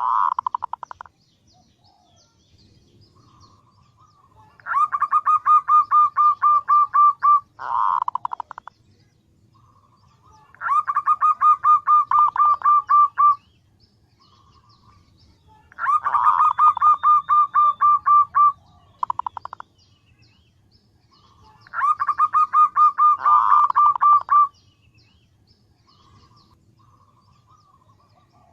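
Female zebra dove (perkutut) calling to attract males: rapid, evenly pulsed rattling trills, four long bursts of about three seconds each, roughly every five and a half seconds, with short bursts in between.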